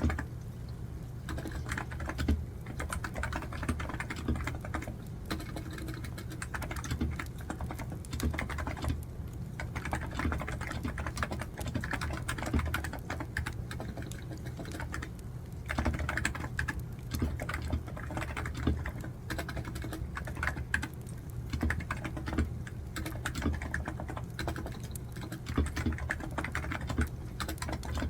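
Computer keyboard typing in quick, continuous runs of keystrokes, thinning briefly around nine and fifteen seconds in, over a steady low hum.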